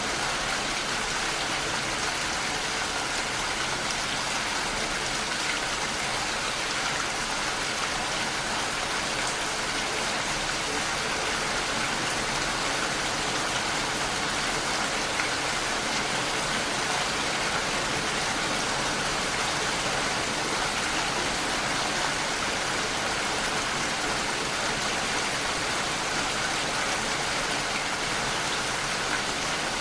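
Steady rain falling and pattering against a window pane, a constant even hiss with no change.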